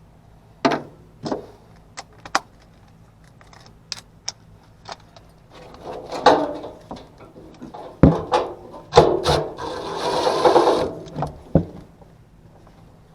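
Hand work on an HVAC unit: scattered clicks and knocks of tools and parts being handled, busier after about six seconds, with a rubbing scrape lasting about a second, near the ten-second mark, over a faint steady low hum.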